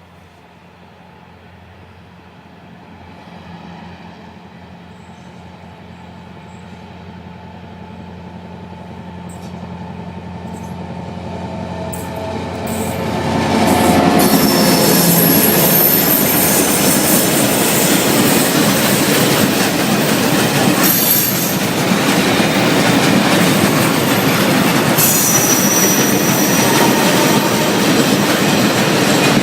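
Freight train hauled by an HŽ 2062 series diesel locomotive approaching and passing. The engine's low drone grows steadily louder for about fourteen seconds, then the locomotive and wagons go by loudly with wheels clattering over the rails and high-pitched wheel squeal in the second half.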